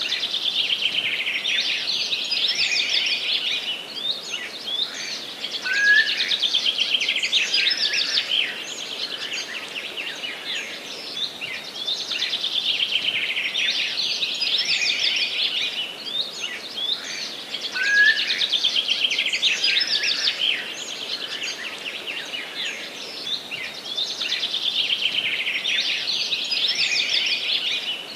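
Songbirds singing in a forest. Phrases of rapid trilled notes come about every six seconds, over a steady background hiss.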